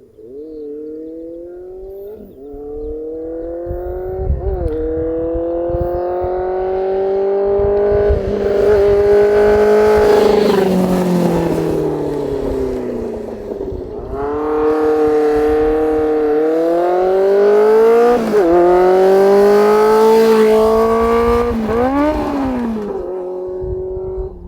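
Kawasaki ZRX400 inline-four with an under-belly cut straight pipe, its revs climbing slowly over several seconds with small quick dips, easing back down, climbing again, then dropping back to a lower idle near the end.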